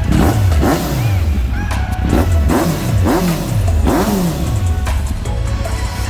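Kawasaki Z900RS's inline four-cylinder engine revved in a series of quick throttle blips, each rising and falling sharply in pitch, over a steady idle.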